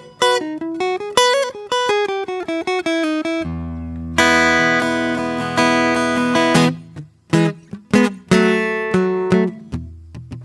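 Solo acoustic guitar playing slowly. A run of single picked notes falls in pitch, then a full chord rings out for a few seconds near the middle, and picked notes follow with another chord.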